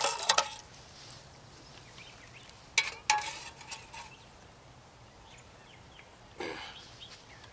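A few sharp metal clinks from handling the canteen cup and its gear, two of them close together about three seconds in, with a short rustle near the end.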